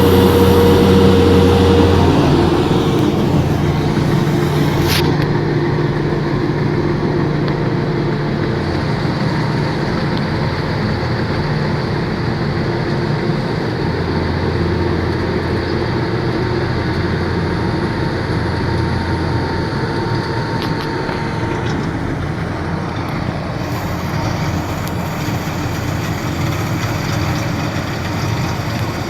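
A machine's engine running steadily with a low hum, and a thin high whine that stops about three quarters of the way through.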